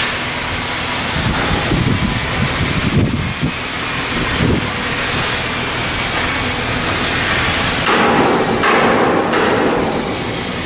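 Shipyard steelwork noise: irregular knocks of metal being hammered over a steady background of machinery and work noise, which shifts about eight seconds in.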